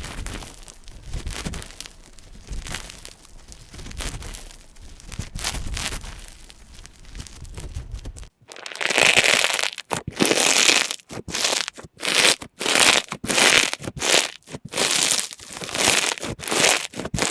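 Slime being squeezed and worked by hand, making soft crackling and crinkling sounds. About eight seconds in it switches to much louder, crisp crunching squishes, repeated in quick short squeezes.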